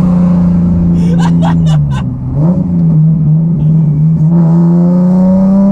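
Single-turbo Nissan 370Z V6 engine running under load, its pitch dipping briefly about two seconds in and then rising steadily as the car accelerates.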